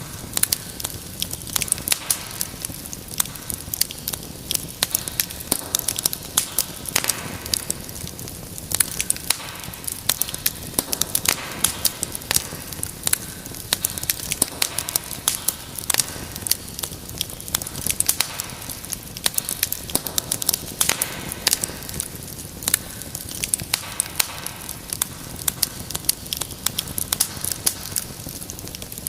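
Fireplace fire crackling steadily: frequent sharp pops and snaps over a low hiss of flame.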